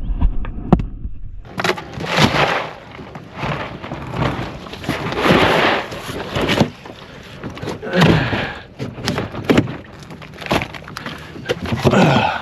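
Water splashing and sloshing in surges, with knocks against the plastic hull of a pedal fishing kayak, as a man hauls himself out of the water back aboard, grunting with effort.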